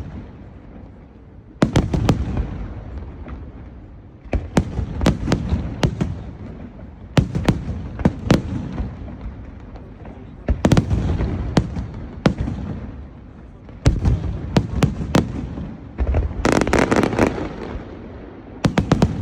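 Aerial fireworks display: volleys of shells bursting in quick clusters of sharp bangs and crackles, a new volley every two to three seconds, each fading before the next. The densest, loudest burst comes near the end.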